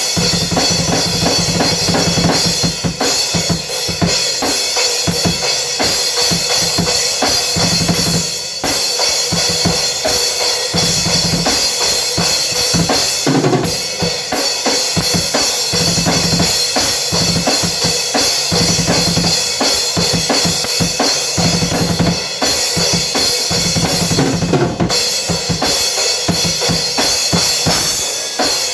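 A drum kit played fast and busily, with bass drum and snare strokes over a constant wash of cymbals.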